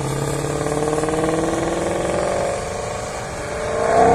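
Sports car engines on a race circuit: an engine note climbing slowly under acceleration, easing off a little after two and a half seconds, then getting louder with a bending pitch near the end as a car draws close.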